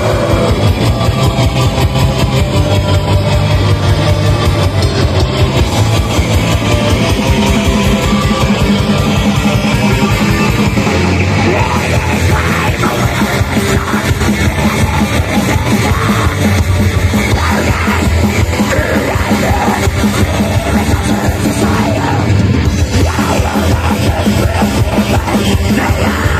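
A metal band playing live, with distorted guitars over fast, dense, unbroken drumming.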